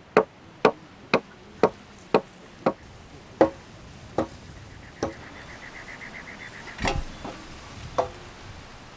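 Chopping blows into a wooden beam, about two a second, slowing and stopping about five seconds in. A short rapid trill follows, then a dull thud about seven seconds in and one more knock.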